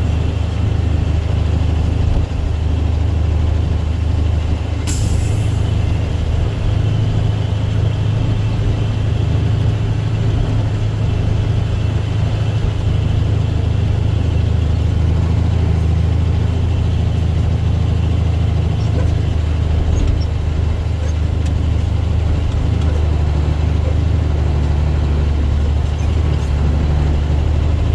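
Dump truck's diesel engine running steadily under way, a deep drone heard from inside the cab. A short hiss comes about five seconds in.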